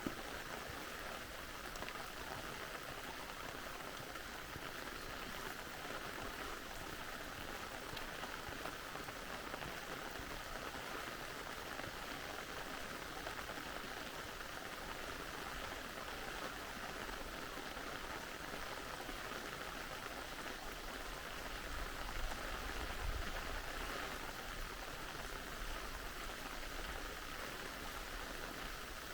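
Steady rain falling, an even hiss with no pauses. A brief low rumble comes about three-quarters of the way through.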